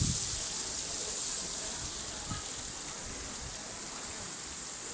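Running river water with a steady high hiss, with a few low thumps about a second in.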